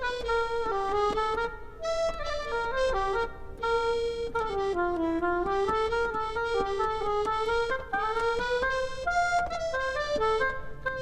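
Instrumental background music: a steady melody of held notes on a reedy, accordion-like instrument.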